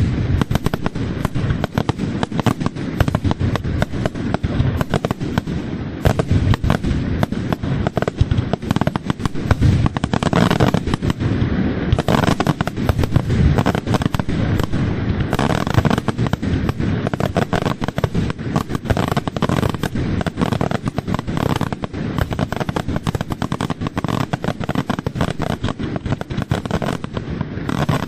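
Aerial fireworks display: a dense, rapid barrage of shell bursts and crackling, the bangs coming many times a second without a break.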